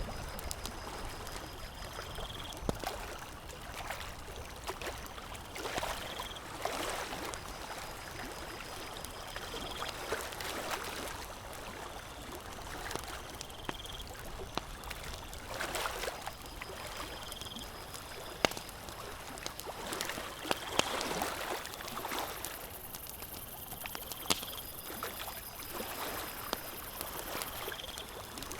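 Small waves lapping at a lake shore, washing in every few seconds, with a few sharp pops from a crackling campfire. A short high chirp repeats about every two seconds.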